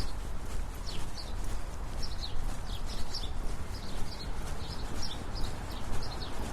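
Brisk footsteps on pavement in a steady rhythm, with small birds chirping many times in short, high calls, over a steady low rumble.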